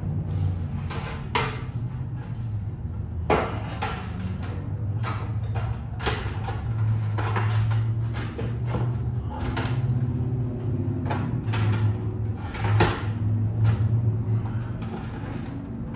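Scattered knocks and clicks of hands-on installation work, irregular and sharp, over a steady low hum.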